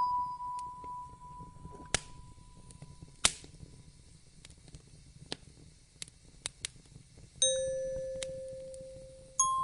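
Wood fire crackling, with scattered sharp pops over a low rumble, while single bell-like chime notes ring and slowly fade. One note is already sounding at the start, a lower one is struck about seven and a half seconds in, and a higher one comes near the end.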